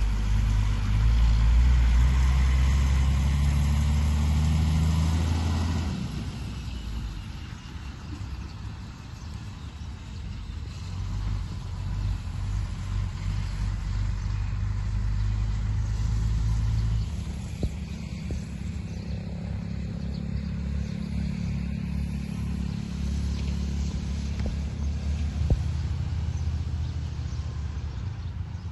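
A vehicle engine running with a steady low hum, loudest for the first six seconds, then fading and swelling again twice.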